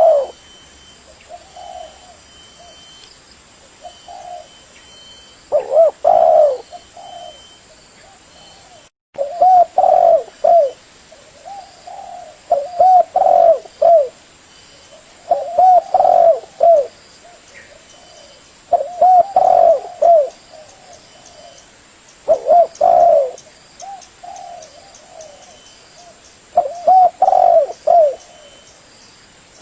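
Spotted dove cooing: repeated phrases of a few low, rounded coos, one phrase every few seconds. The sound cuts out for a moment about nine seconds in.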